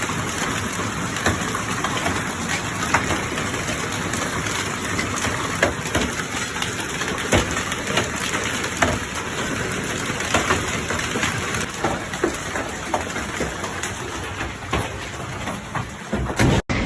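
Hailstorm with heavy rain: a steady hiss of falling water, with hailstones striking hard surfaces as sharp, irregular knocks and clicks.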